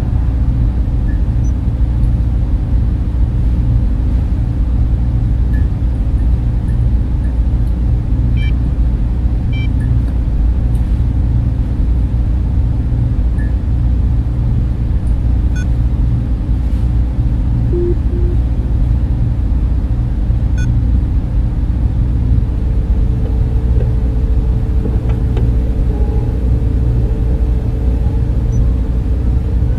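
Server-room cooling fans running steadily: a continuous deep rumble of air noise with no change in level, a faint thin tone joining about three-quarters of the way through.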